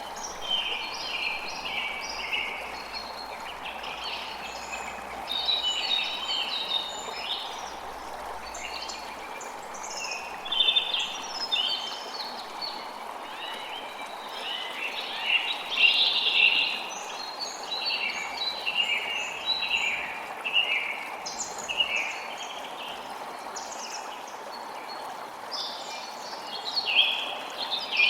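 Many songbirds chirping and singing over the steady rush of a flowing creek.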